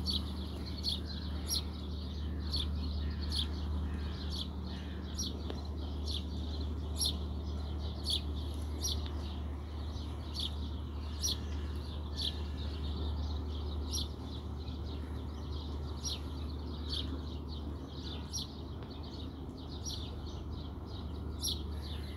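A bird chirping over and over, one short high chirp every half second or so, over a steady low drone that eases off slightly about fourteen seconds in.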